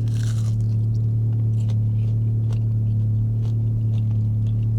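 A person biting into and chewing a French fry: a short crunch at the start, then faint crisp chewing clicks. Under it is the steady low hum of the car's running engine, heard from inside the cabin.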